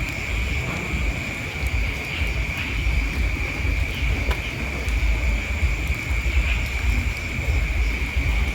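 Steady high-pitched chirring of insects, with wind rumbling on the microphone.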